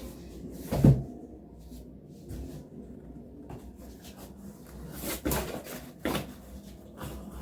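Cardboard box being handled: a sharp knock about a second in, two more knocks around five and six seconds in, and light rustling between them.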